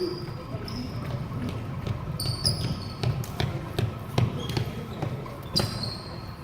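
Basketball bouncing on a gym floor: a run of irregular thuds, with short high sneaker squeaks now and then over a low background murmur.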